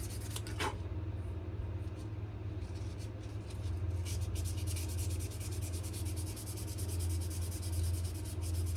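Sandpaper rubbing on a wenge-and-maple knife handle in short, quick, repeated strokes, for a light final touch-up sanding, over a steady low hum.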